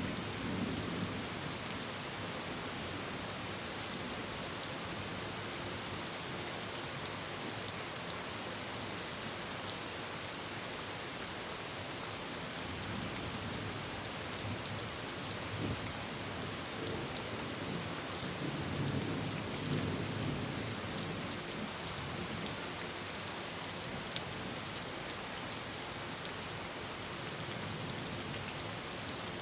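Heavy rain falling steadily on a tin roof, with a low roll of thunder about two-thirds of the way through.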